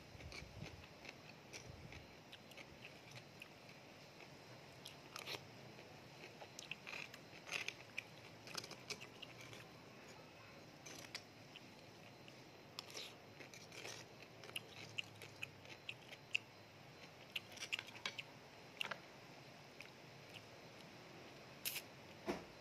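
Close-up chewing of sea grapes: faint, irregular wet clicks and crunches as a mouthful is eaten, with a sharper click near the end.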